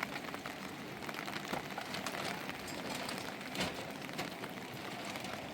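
Steady rain falling, a continuous hiss dotted with many small drop hits.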